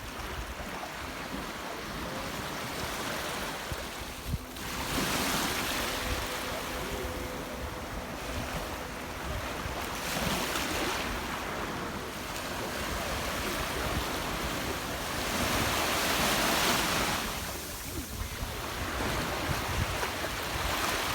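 Sea waves washing in slow surges, one every few seconds, with wind buffeting the microphone.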